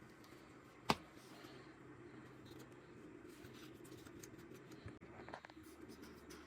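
Small parts of a dishwasher circulation pump being handled: one sharp click about a second in and a few light clicks around five seconds, over a faint steady hum.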